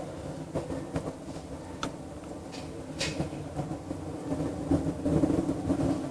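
Low, wavering drone and rumble of unknown cause, heard for hours through the night, swelling louder about five seconds in. A couple of short, sharp clicks sound around two and three seconds in.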